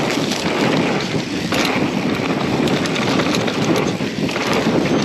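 Wind buffeting the microphone as a mountain bike rolls along a dirt trail, a steady rushing noise with the rumble of the tyres and small rattling ticks from the bike.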